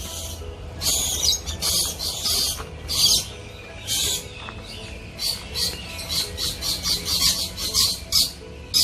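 Aviary birds calling: a run of short, high, scratchy chirps and squawks in irregular bursts, some a fraction of a second long, with a brief sharp one near the end.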